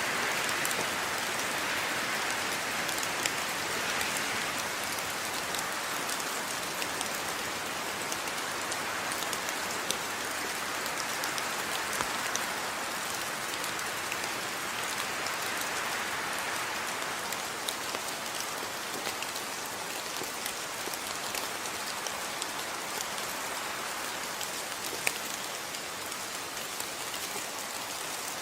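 Steady rainfall, an even hiss of rain with scattered sharper drops ticking on a surface.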